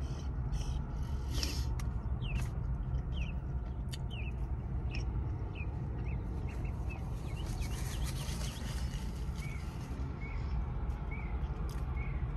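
A bird calling over and over: short downward-sliding chirps a little under a second apart, turning later into short arched notes at the same pace. A steady low rumble and a few sharp clicks lie underneath.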